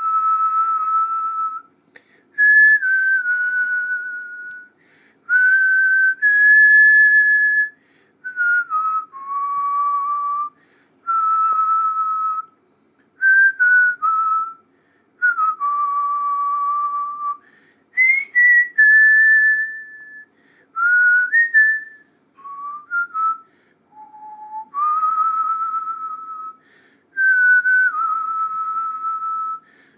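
Whistling of a slow tune in long held notes that step up and down in pitch, with short breaks between phrases.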